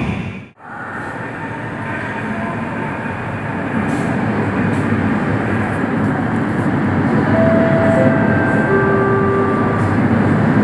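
Shenzhen Metro Type A train (CRRC Sifang) running, heard from inside the car: a steady rumble of wheels and motors that grows slowly louder. A few short steady whine tones come through in the second half. The sound drops out sharply about half a second in, then comes back.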